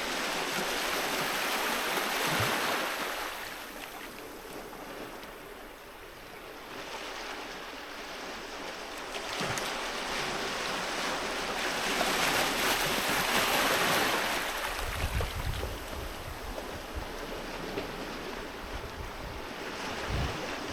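Sea waves breaking and washing up on a beach: a steady surf hiss that swells twice as waves come in. Low gusts of wind buffet the microphone later on and near the end.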